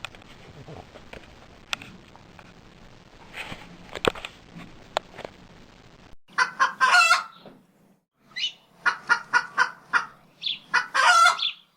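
Faint room noise with a few clicks, then barnyard fowl calls: a long crow about six seconds in, a quick run of short clucks, and another crow near the end.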